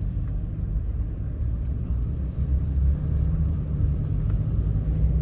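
Low, steady rumble of a truck driving, heard from inside the cab.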